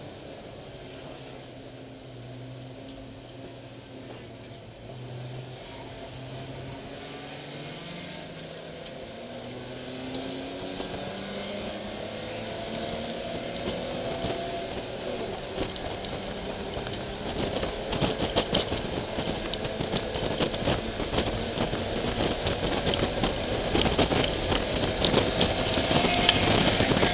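BMW E30 325iS's M20 straight-six engine heard from inside the car, running at low revs at first, then climbing in pitch and getting steadily louder under acceleration through the second half, with rattling and clatter building toward the end.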